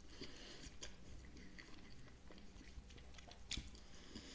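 Faint chewing of a mouthful of rice and steamed salmon, with small wet mouth clicks and one louder click about three and a half seconds in.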